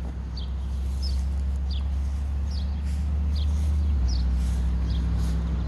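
A small bird repeating a short, high, falling chirp about once a second, over a steady low hum that is the loudest sound throughout.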